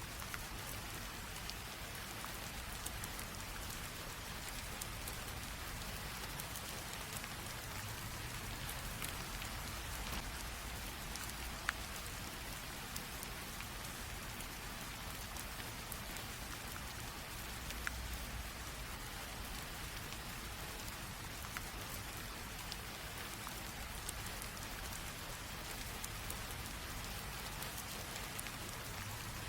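Light rain drizzling steadily, with scattered individual drops ticking among the patter; one drop lands more sharply about twelve seconds in.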